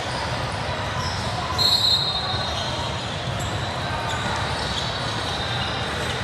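Gym noise of a basketball game in progress: steady murmur and movement echoing in the hall, with a brief high-pitched squeak about a second and a half in.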